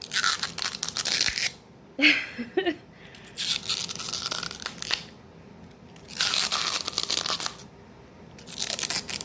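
Teeth biting into a Martinelli's apple-shaped apple juice bottle, making a crisp crunching crackle like biting into an apple, in four bursts a second or two apart.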